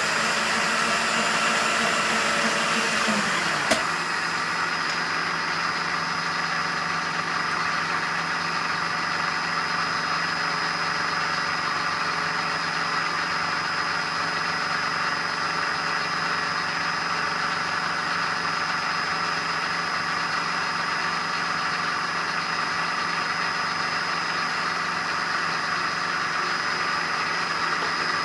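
Milling machine running with a 1/2-inch four-flute carbide end mill taking a roughing cut, a steady mechanical hum with a high whine. A single click comes about four seconds in, after which a low tone drops out.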